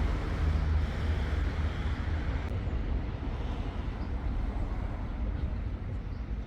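Steady outdoor background noise: a low rumble under a soft hiss, with no distinct events.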